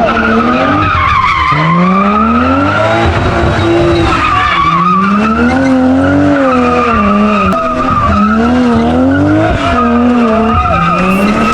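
A car drifting, its engine revving up and down over and over while the tyres squeal continuously.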